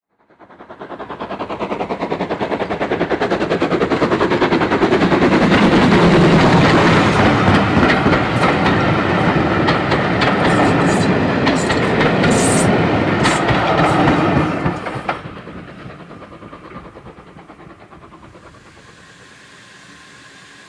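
Passenger train passing close by, its wheels clattering over the rail joints with many sharp clicks. It builds up over the first few seconds, then cuts off suddenly about three-quarters of the way through, leaving a faint steady background.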